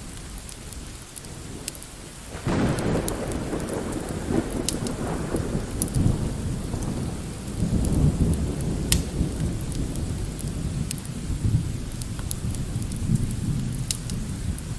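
Rolling thunder breaks in suddenly about two and a half seconds in and rumbles on, swelling again in the middle, over steady light rain. Occasional sharp ticks sound on top.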